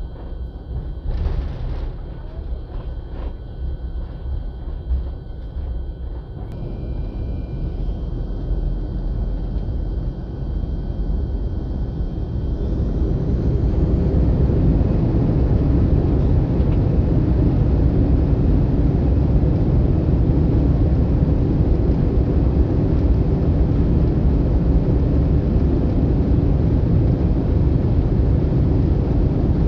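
Airliner cabin noise as the jet engines spool up for takeoff: a low rumble that grows louder over about eight seconds, then holds steady and loud through the takeoff run.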